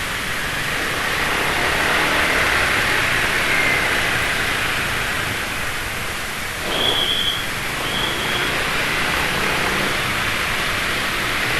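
Steady wind and road noise from a moving scooter in traffic. About seven seconds in, a brief louder swell, like a vehicle passing, is followed by two short high-pitched beeps.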